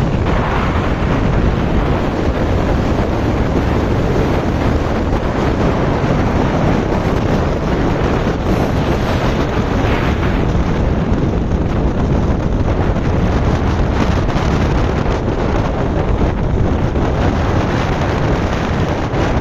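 Strong wind buffeting the microphone over the steady noise of a rough sea's surf.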